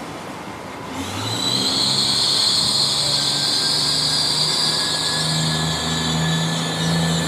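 A train running through the station, loud from about a second in: rail and wheel noise with a steady high-pitched whine over a low engine or traction hum.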